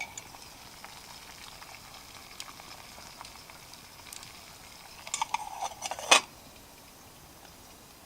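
Water heating to a boil in a metal campfire coffee pot, a faint steady hiss with small crackles. A cluster of metallic clinks comes about five seconds in, ending in a sharp clank of metal about a second later.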